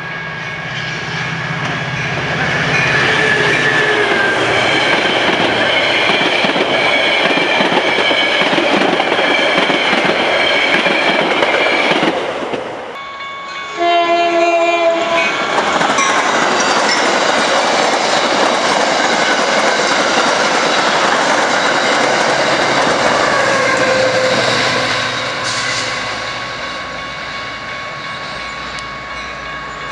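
Trains passing a grade crossing, horn sounding and wheels clattering over the rail joints. About 13 seconds in the sound drops away briefly before another loud passage, and it grows quieter over the last few seconds.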